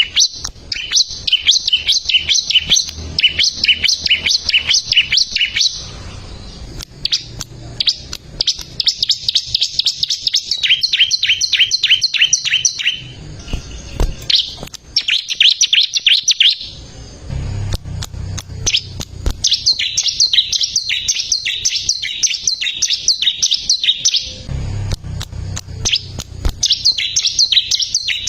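Bar-winged prinia (ciblek) singing in long phrases of rapid, evenly repeated sharp high chirps, each phrase lasting several seconds with short pauses between them.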